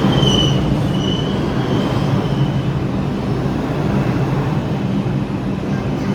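R142 subway train pulling into the station over a steady low rumble, its wheels squealing high-pitched on the rails for the first two seconds or so before the squeal dies away.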